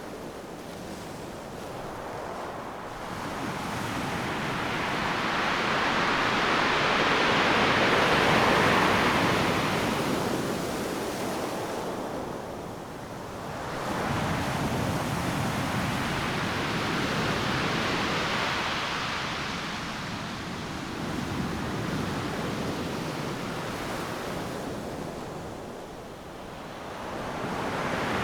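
Ocean surf breaking on a beach: a continuous rushing wash that swells and fades as successive waves crash and run up the sand, about four surges in the stretch.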